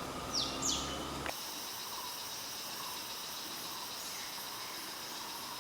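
Two quick downward-sweeping bird whistles, then, after an abrupt cut about a second in, a steady high-pitched forest insect drone with faint chirps repeating through it.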